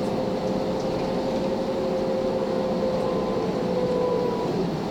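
Volvo B10BLE bus heard from on board, with the whine of its ZF automatic gearbox: a steady whine that drifts slightly lower and fades near the end, over the engine and road noise. A second, higher whine joins it for about a second in the later part.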